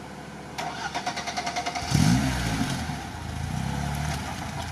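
Lada Niva's stalled engine being restarted: the starter cranks for about a second, the engine catches about two seconds in with a quick rising rev, then settles into a steady idle.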